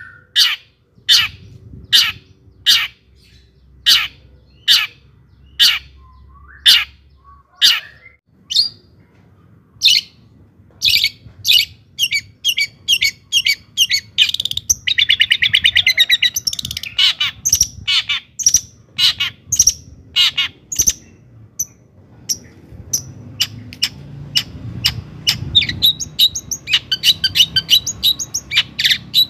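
Long-tailed shrike (cendet) singing: sharp, harsh notes repeated about twice a second, quickening into rapid chatter with a fast rattling trill about halfway through.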